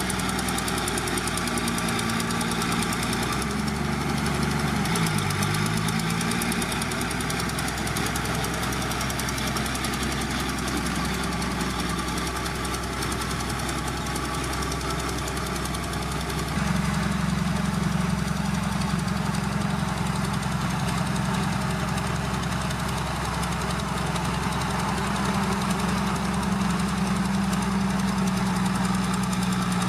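Heavy diesel engine of an earthmoving machine running. Its pitch wavers up and down about four to six seconds in, and it gets louder and holds steady from about halfway through.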